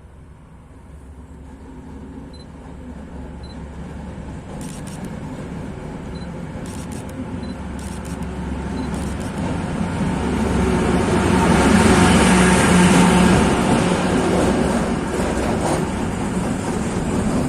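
Class 15D diesel locomotive running light, its engine hum growing louder as it approaches, peaking about twelve seconds in, then easing slightly as it passes.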